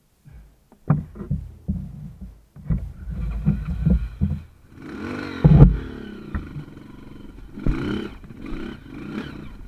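Small off-road motorcycle's engine revving in short bursts, its pitch rising and falling, with sharp knocks and clatter in the first few seconds.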